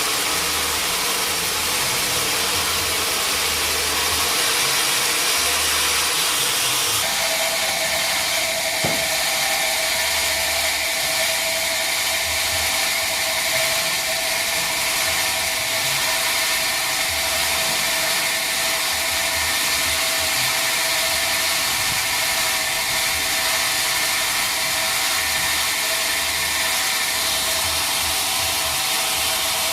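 Sawmill machinery running steadily as mahogany is processed, with a continuous hum that changes pitch about seven seconds in and a single short click shortly after.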